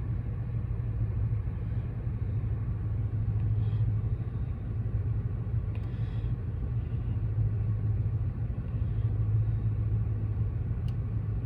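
2016 Dodge Challenger R/T's V8 engine idling steadily, a low even hum.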